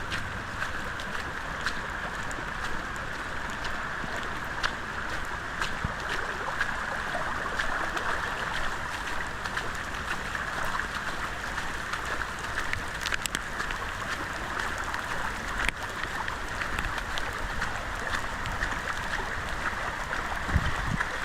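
Steady rushing of rain and running water, with scattered small drip ticks throughout and a couple of low thumps near the end.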